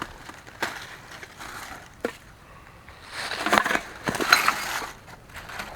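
Digging through a woodland bottle dump by hand: single sharp knocks about half a second and two seconds in, then crunching and scraping of dirt and leaf litter with clinks of glass bottles from about three to four and a half seconds in.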